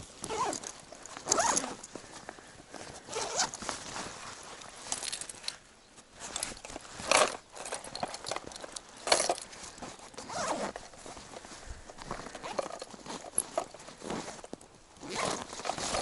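Irregular swishing and rustling strokes, roughly one every second or two: clothing and gear being handled amid footsteps through grass.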